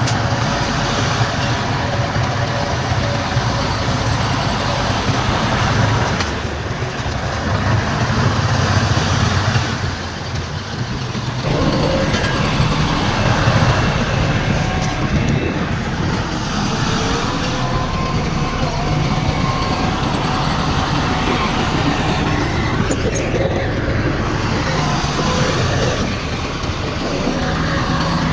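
Bulldozer at work: its heavy diesel engine running with a steady low rumble under the clatter and metallic squeal of its steel crawler tracks.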